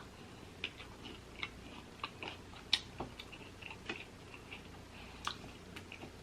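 Close-up mouth sounds of a person chewing a cheesesteak sandwich on toasted French bread: faint, irregular wet clicks and small crunches.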